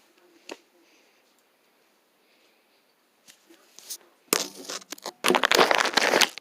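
Loud crinkling, crackling rustle in two bursts, the first starting about four seconds in and the second cutting off suddenly at the end.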